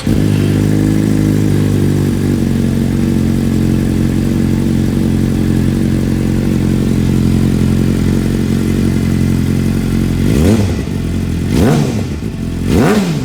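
Suzuki GSX-R600 K8's inline-four idling steadily through its exhaust with the catalytic converter removed, then blipped three times near the end, the revs rising and falling quickly each time.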